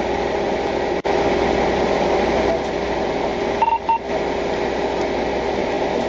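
Steady hum of an idling vehicle, with two quick short electronic beeps a little over halfway through.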